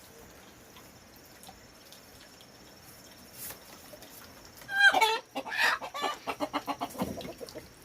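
Chicken calling: quiet for the first few seconds, then a loud call falling in pitch about five seconds in, followed by a quick run of clucks, about five a second.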